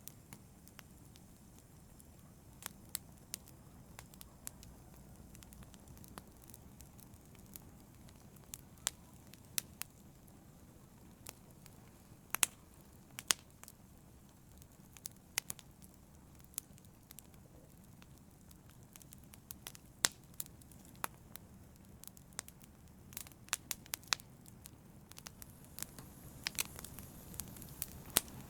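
Wood fire crackling, irregular sharp pops and snaps over a low steady rumble of burning.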